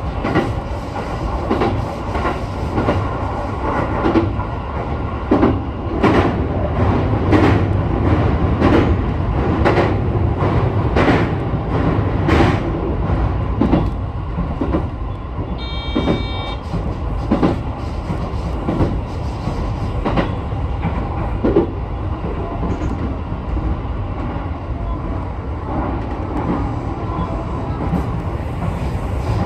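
Sotetsu 12000 series electric train running along the line, heard from inside its leading car: a steady low rumble with wheels clicking over rail joints at irregular intervals, most often in the first half. One short high beep sounds about halfway.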